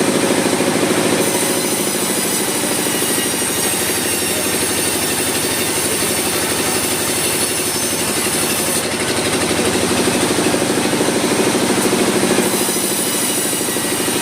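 Sawmill machinery running steadily with a fast mechanical rattle. A high hiss comes in about a second in, drops out about two-thirds of the way through, and returns near the end.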